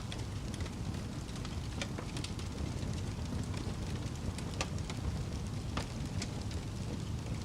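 Wood fire crackling in a fireplace: irregular sharp snaps and pops, a few standing out about two seconds in, near the middle and near six seconds, over a steady low rumble of the burning.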